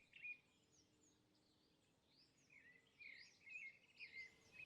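Near silence with faint birds chirping: a few short, high chirps, clustering from about three seconds in.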